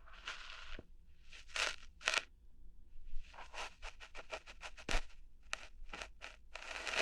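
Ear hair being plucked out close on the microphone: scratchy rustling and crackling snaps in short bursts. A quick run of small clicks comes around the middle, followed by a few sharp ticks.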